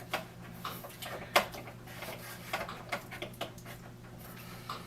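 Light clicks and knocks of hard plastic coffee-maker parts being handled, about eight in all, with one sharper knock about a second and a half in, over a steady low hum.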